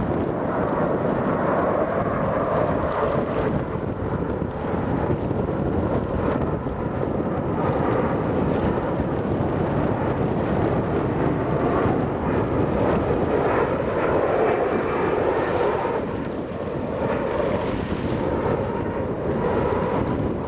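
Airbus A330-300 airliner's jet engines running in a steady roar as it comes in to land, with wind noise on the microphone.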